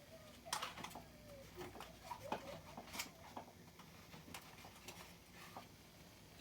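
Faint handling noises: a scatter of light clicks and taps, several in the first few seconds, then tapering off.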